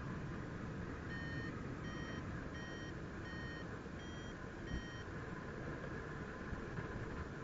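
Paragliding variometer beeping: six short beeps in quick succession, the fifth a little higher than the rest, the vario's climb signal that the glider is in rising air. Steady wind rush on the microphone throughout.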